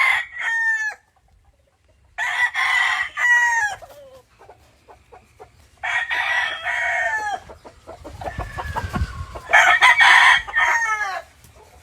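Gamefowl roosters crowing repeatedly: the end of one crow, then three full crows spaced a few seconds apart, each ending in a falling tail.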